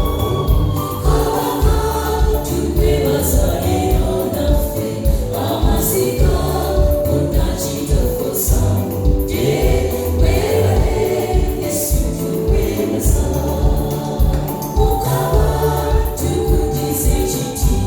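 A choir singing a gospel song over a band with a steady beat.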